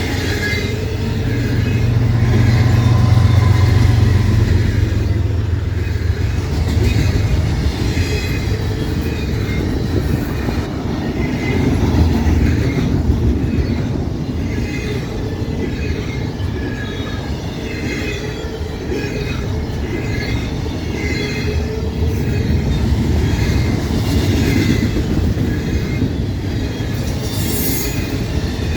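Freight train's cars rolling past on the track: a steady rumble of steel wheels on rail with rattling, and a louder low drone a few seconds in and again near the middle.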